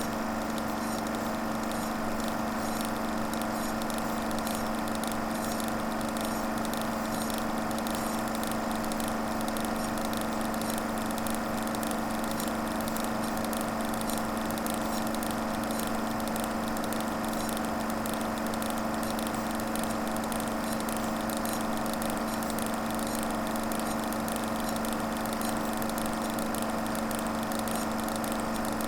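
Film projector running steadily: a motor hum under a fast, even clatter of the film transport.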